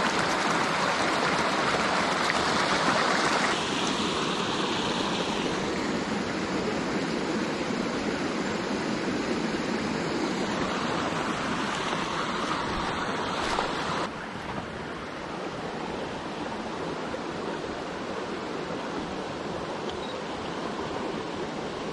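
Steady rushing of flowing water, with the level dropping suddenly about fourteen seconds in.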